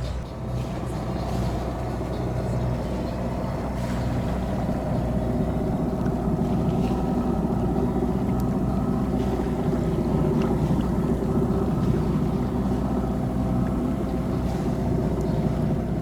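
A sailboat's engine running steadily under way, a low drone with rushing water and wind noise.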